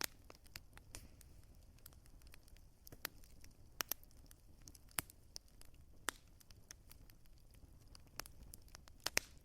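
Wood fire crackling: irregular sharp pops and snaps over a faint low rumble. The loudest snaps come just before 4 s and near the end.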